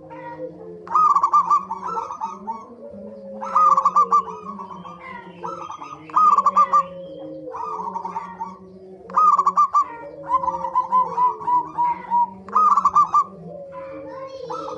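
Zebra doves (perkutut) calling: loud phrases of rapid rolling coos repeat every two to three seconds, over a steady layer of lower, softer cooing.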